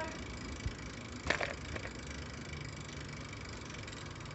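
Low, steady rumble of a bicycle being ridden, with a dull thump just under a second in and a short rattle of sharp clicks soon after.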